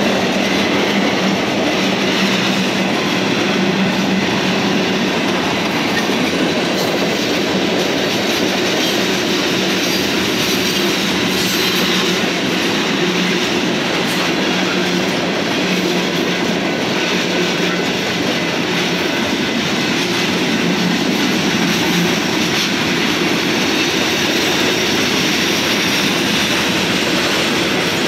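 Freight train's tank cars and boxcars rolling steadily past, a continuous noise of steel wheels running on the rails.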